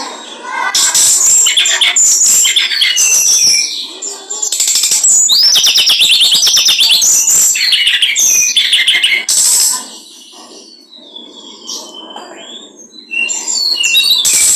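Small songbird singing loud, fast chattering phrases of high notes in two long bursts. A quieter stretch of a few seconds follows, and the song starts again near the end.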